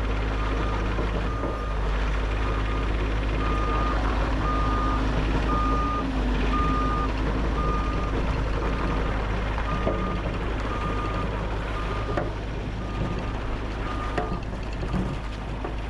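Bobcat E50 compact excavator's travel alarm beeping about once a second over the steady drone of its diesel engine, the sign that the machine is tracking.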